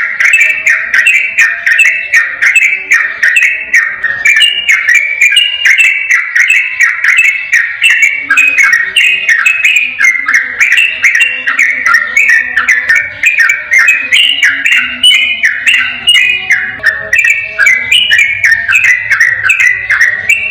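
Yellow-vented bulbul (trucukan) singing its fast, continuous 'ropel' song: quick bubbling, warbled phrases following one another without pause. A sharp high ticking, about three a second, runs above the song.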